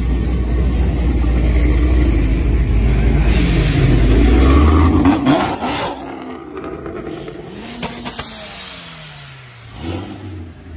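A car engine revving and accelerating, building louder for about five seconds and then dropping away suddenly. Later a single engine note slides down in pitch.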